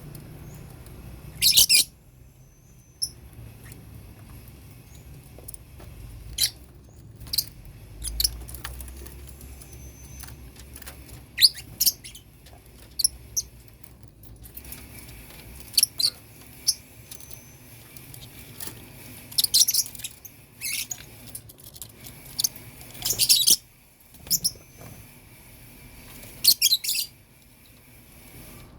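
Lovebirds chirping in short, high bursts, scattered every few seconds, over a faint low hum.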